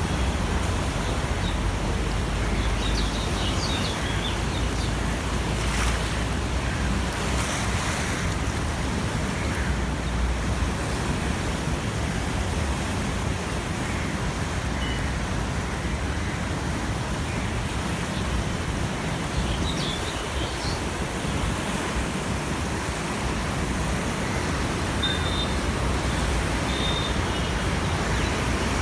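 Swollen Yamuna river in flood, its water rushing in a steady, continuous noise.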